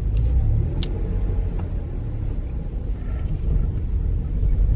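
Subaru Impreza G4's flat-four engine and the car's running gear rumbling low and steady inside the cabin as the manual car creeps forward in first gear just after pulling away, with a single sharp click about a second in.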